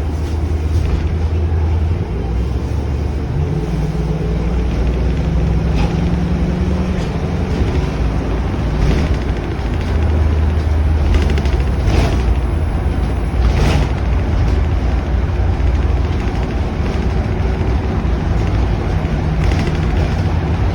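Steady low rumble of a vehicle on the move, engine drone with road noise, with a few short knocks about twelve and fourteen seconds in.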